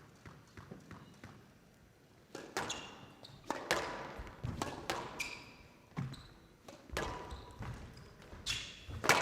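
A squash rally: the ball cracking off rackets and the court walls in sharp, irregular strikes about one to two a second, starting about two seconds in, with short squeaks of court shoes between them.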